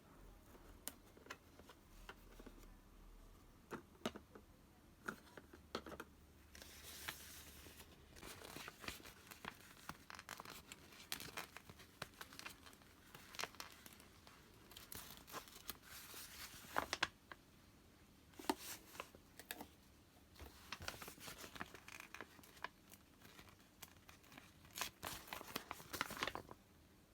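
Close-up handling sounds of paper or plastic being torn, peeled and crinkled, in short rasping spells mixed with small clicks and taps.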